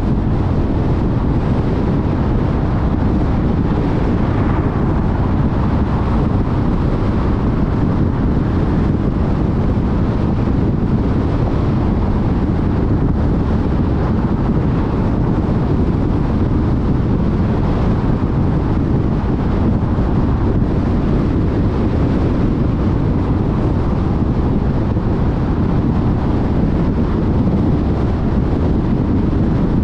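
Steady tyre and road noise with wind rush from a car travelling at freeway speed.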